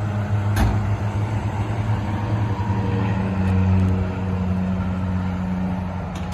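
Vehicle engine running steadily with a low drone and road noise, with a sharp click about half a second in.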